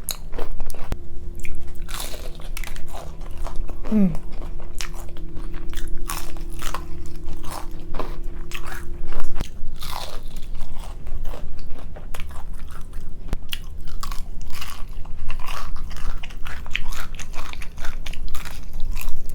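Close-miked eating of a seafood boil: repeated bites, crunches and chewing, the sharp strokes coming irregularly several times a second.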